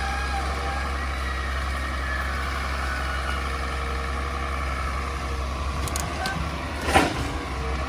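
A heavy construction machine's diesel engine running steadily: a low rumble with a faint whine over it. One sharp knock comes about seven seconds in.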